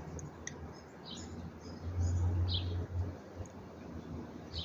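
Small birds chirping: a few short, high calls spaced out over several seconds, with a low rumble underneath.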